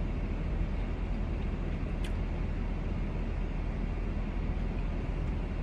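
Steady low rumble of a car cabin, with one brief click about two seconds in.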